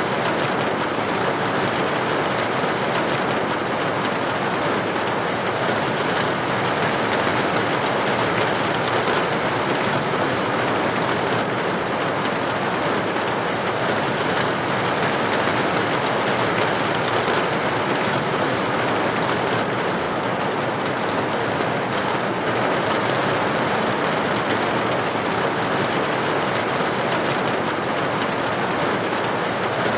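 Steady rain pattering on a window pane, an even rushing hiss with no breaks or single louder drops.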